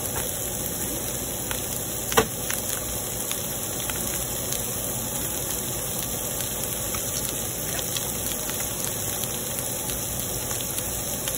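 Pulled pork with green peppers and onions sizzling steadily in a hot pan, with one sharp click about two seconds in.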